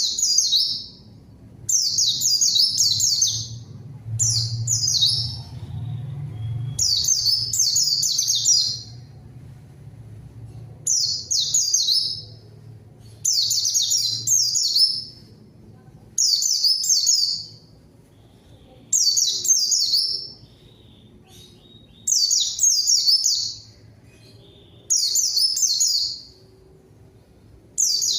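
A white-eye (pleci) singing: short, rapid, high-pitched twittering phrases of a second or so each, repeated every two to three seconds, with one longer phrase a few seconds in.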